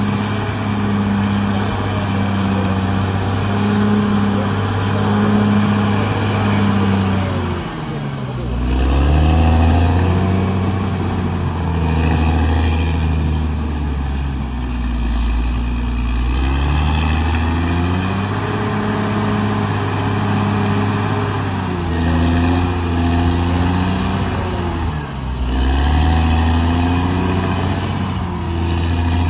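Bulldozer's diesel engine running under heavy load. It hums steadily, and its pitch dips and climbs back a few times, about a quarter of the way in and twice more late on, as the engine lugs while pushing soil and rock.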